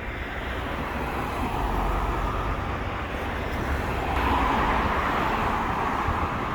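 Road traffic passing: a steady hiss and rumble of cars, swelling twice as vehicles go by.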